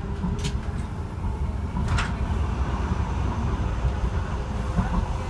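Docklands Light Railway B2K railcar heard from inside, a steady low rumble with two faint steady tones and two short sharp clicks, about half a second and two seconds in.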